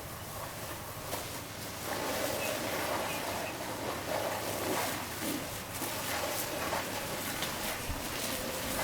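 Fireground noise at a burning house: a steady rushing noise with scattered crackles and snaps, and faint, indistinct voices.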